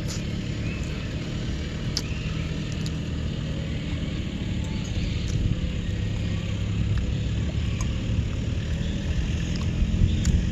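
A steady low engine drone, like a vehicle running or traffic, with a few faint clicks and short bird chirps over it.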